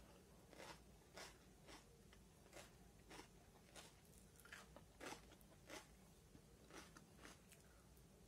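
Faint chewing and eating sounds of biryani eaten by hand: short clicks roughly every half second.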